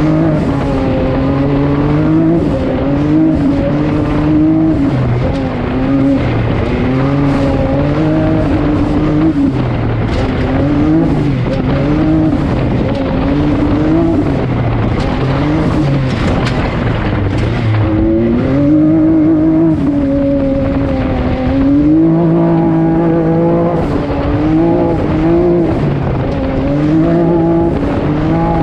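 Off-road vehicle engine revving up and down repeatedly as it is ridden, the throttle opened and eased every second or two, over steady noise from terrain and wind.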